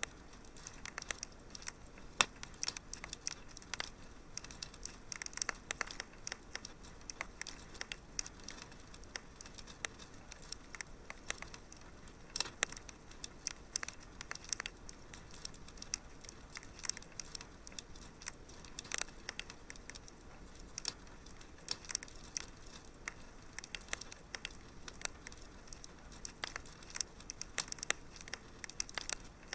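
Wood fire crackling in a fireplace: irregular snaps and pops over a soft hiss, with a sharper pop about two seconds in.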